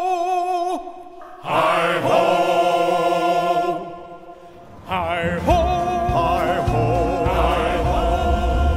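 Sung music from a ride's soundtrack: voices holding long notes with vibrato, breaking off twice, with a low rumble joining about halfway through.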